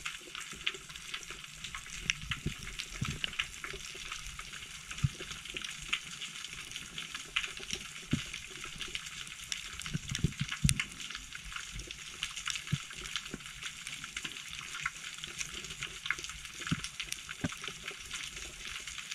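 Underwater ambience: a dense, steady crackle of tiny clicks, with scattered low thuds and knocks, the strongest a cluster about ten seconds in.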